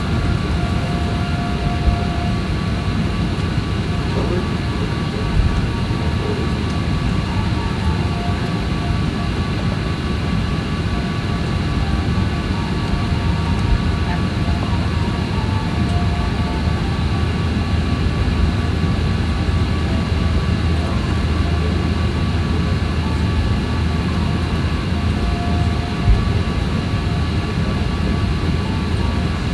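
Steady cabin drone inside a Boeing 737-800, a continuous low rumble with a few faint steady tones above it, and a couple of small knocks.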